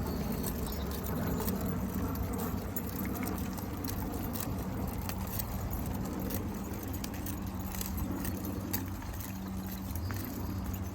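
Metal tags and leash hardware on a pack of walking dogs jingling in irregular clinks, over a steady low hum.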